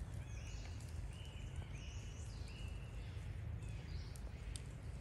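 A series of short, high-pitched animal calls, some stepping up in pitch, repeated every second or so over a steady low rumble.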